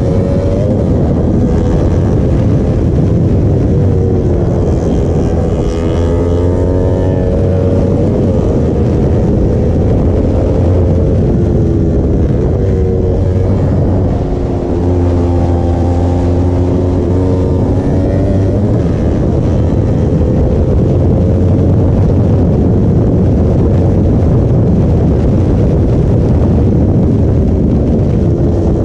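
Yamaha sport motorcycle's engine running under way, heard from on the bike, its pitch rising and falling as the throttle is opened and eased through the bends, over a steady low rumble. The engine briefly drops off about halfway through, then picks up again.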